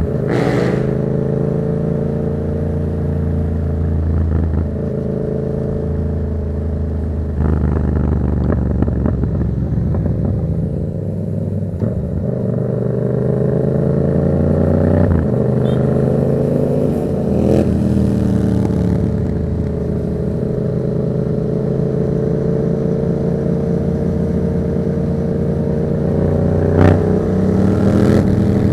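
Yamaha MT-07's 689 cc parallel-twin engine through an aftermarket Black Widow exhaust, running under way with the revs falling and rising through the gears. There is one short sharp crack near the end.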